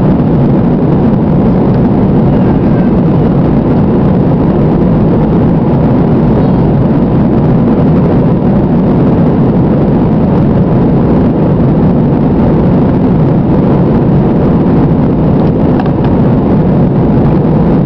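Steady, loud noise from an airliner's engines and rushing air, heard inside the cabin as the plane climbs after take-off.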